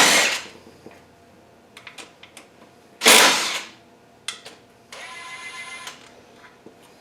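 Work with tools on the engine's upper oil pan bolts: two short, loud rushing noises, a few light clicks and knocks, and a steady mechanical buzz lasting about a second after the second rush.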